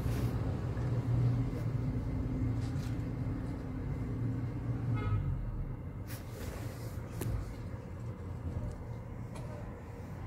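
A vehicle's engine hums steadily, heard from inside the cabin, and cuts out about five seconds in. A couple of sharp knocks follow.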